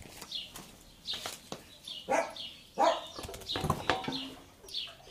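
A bird chirping over and over, short falling chirps about twice a second. In the middle come louder knocks and scrapes from the motorcycle's rear wheel being handled.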